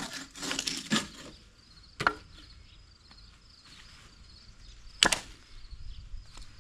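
Hand-sawing through wood, the rhythmic back-and-forth strokes stopping about a second in, then two sharp wooden knocks about three seconds apart. Insects chirp faintly in the background.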